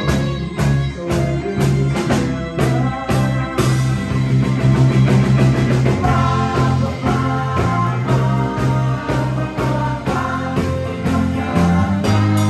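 Live band playing a rock song, with guitar and a steady beat.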